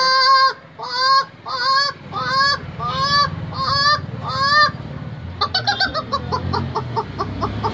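A woman imitating chicken calls with her voice. A long held squawk ends about half a second in, then come six rising-and-falling calls about half a second apart, then a run of short, quick calls, several a second.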